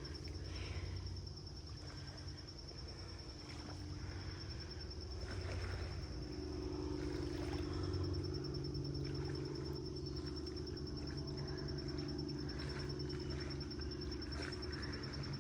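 Crickets calling in a steady, even high trill, over a low steady hum that grows a little louder about six seconds in, with scattered faint clicks and rustles.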